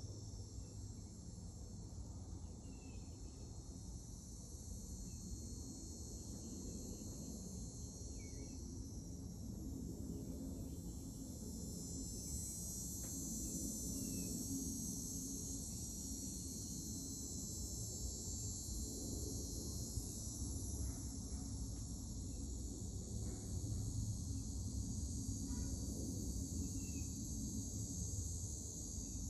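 A steady high-pitched insect chorus that runs without a break, with a few faint short chirps scattered through it and a low background rumble.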